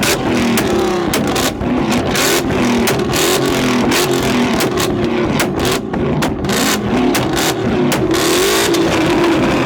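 Car engine revved hard again and again, pitch rising and falling, with a rapid string of loud exhaust pops and bangs: backfires from an exhaust tuned to pop and shoot flames.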